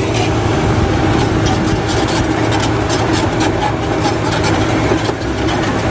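Bulldozer engine sound: a heavy engine running steadily, with a constant low hum.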